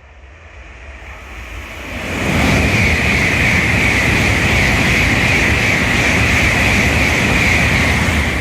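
A Shinkansen bullet train passes through a station at high speed without stopping. Its rush builds over the first two seconds, then holds loud and steady for about six seconds as a high hiss over a low rumble. It begins to fade near the end.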